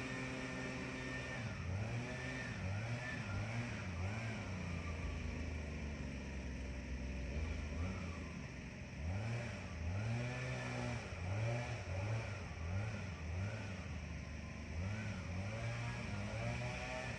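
Tractor engine running, its speed rising and falling over and over in quick blips of about a second each, settling back to a steady idle near the end.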